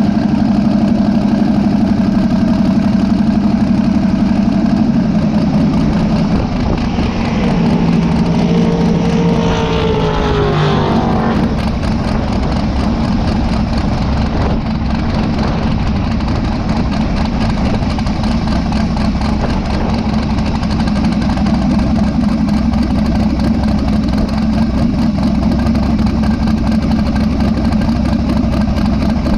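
Vehicle engine running steadily, revving up in a climbing pitch about seven seconds in for a few seconds, then settling back to a steady run.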